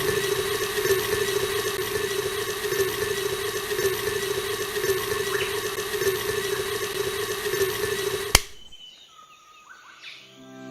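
Small motor of a miniature DIY machine running at a steady speed with an even whine, then cutting off abruptly with a click about eight seconds in. Faint chirping follows.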